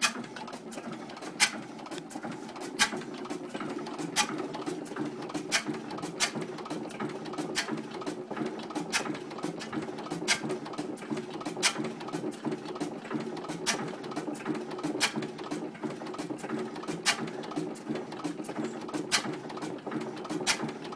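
1912 Crossley G112 stationary gas engine running, a steady hum with a sharp click about every second and a half, and fainter clicks between some of them.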